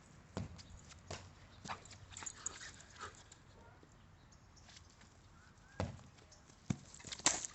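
A dog at play: scattered thumps and scuffs from its paws and body, with a few sharp knocks, the loudest near the end.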